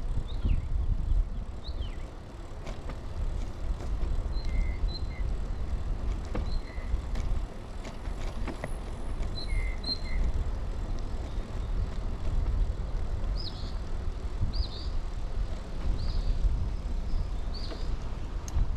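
Steady low rumble of a mountain bike rolling along, tyre and wind noise, with faint clicks and rattles. Birds chirp in short calls throughout, with a run of falling chirps in the second half.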